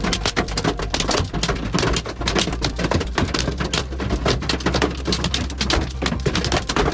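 Hail pelting a hard surface: a dense, steady clatter of many rapid sharp impacts.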